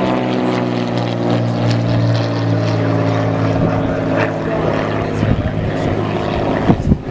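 Propeller airplane engine running with a steady drone that fades away near the end, giving way to gusts of wind on the microphone.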